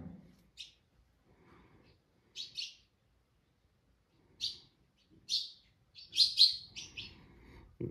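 Small birds chirping: short, high chirps come one after another with gaps, thickest and loudest toward the end.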